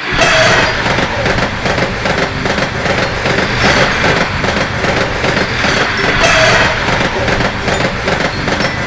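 A train passing: a loud, steady rush of rumbling rail noise that starts abruptly.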